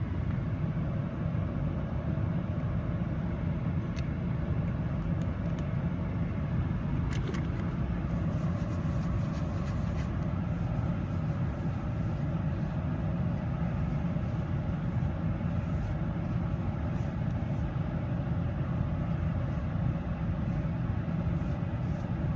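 Steady low rumble of vehicle noise, heard from inside a parked car, with a couple of faint clicks.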